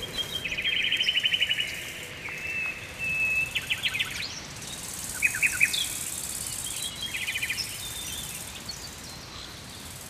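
Woodland birds calling: several short, rapid trills and a brief steady whistle, with a steady high hiss for a few seconds in the middle.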